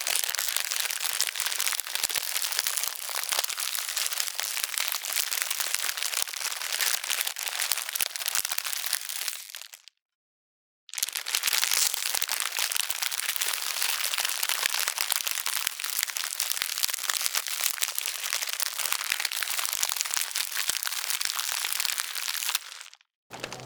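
Ice cracking: a fast, continuous crackle of many small cracks and crinkles. It fades out about ten seconds in, stops for about a second, then starts again and fades out near the end.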